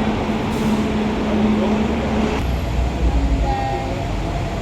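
Steady road-traffic noise with a vehicle engine's low hum that stops about halfway through, leaving a deeper rumble.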